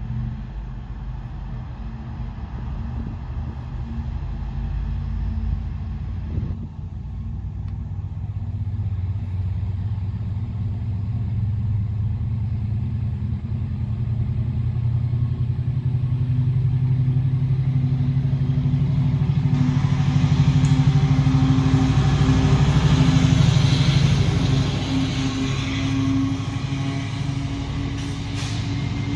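A diesel train passing: a steady low engine drone builds slowly to its loudest about three-quarters of the way through, joined by a hiss of wheels on rail, then begins to ease off.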